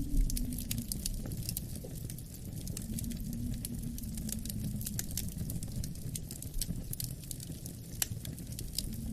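Wood fire crackling with frequent irregular pops and ticks. Under it, low wind howls, its pitch sliding down at the start and swelling again a couple of seconds in. A louder pop comes just after the start and another about eight seconds in.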